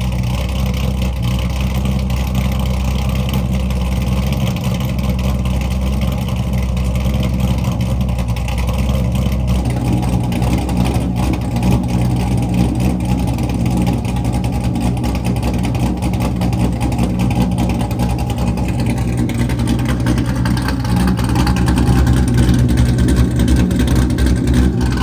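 Corvette C6 Z06's 7.0-litre LS7 V8, cammed, with long-tube headers and straight pipes without mufflers, running loud at a steady engine speed. It grows a little louder in the last few seconds.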